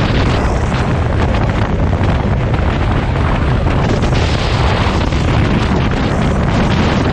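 Heavy wind buffeting on the microphone: a loud, steady rumble with hiss above it, unbroken throughout.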